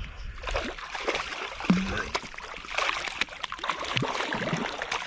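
Water splashing and trickling, with scattered small knocks and clicks, as a hooked fish is fought and brought in.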